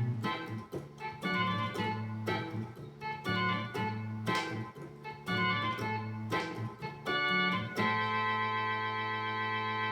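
Yamaha YC-20 combo organ playing short chords over a low bass line, then holding one long sustained chord from about eight seconds in.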